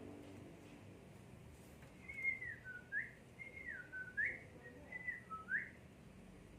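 A songbird whistling the same clear phrase three times: a held note, a drop in pitch, then a quick upward sweep.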